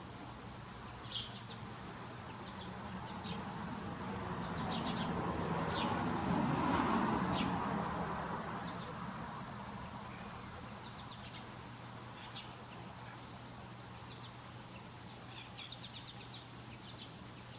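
Insects trilling in a steady, high-pitched chorus, with scattered brief high chirps. A broader low rumble swells up and fades away in the middle.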